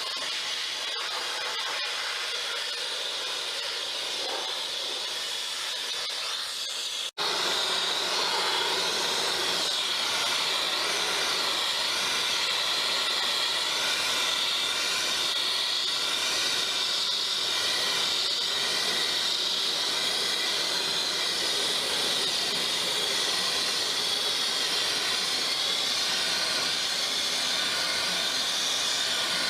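Sandblasting a steel truck frame: a steady hiss of compressed air and abrasive grit from the blast nozzle. It breaks off for an instant about seven seconds in and resumes a little louder.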